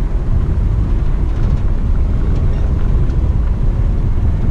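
Jeep driving on the off-road trail: a loud, steady low rumble of engine and ride noise.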